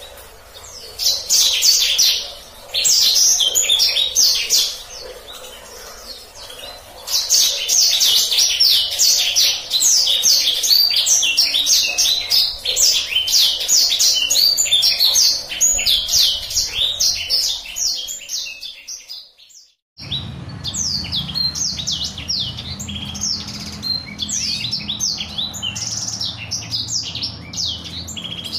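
Black-throated canary (blacksang) singing a fast, rolling, high-pitched song in long runs of rapid notes. The song stops abruptly about nineteen seconds in and picks up again a second later over a low hum.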